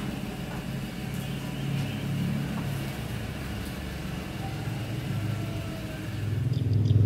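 Toyota Agya hatchback's engine running at low revs as the car reverses slowly out of a carport, getting louder near the end.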